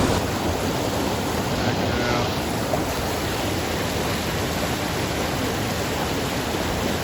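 Creek water rushing over rocks: a steady, even hiss of moving water.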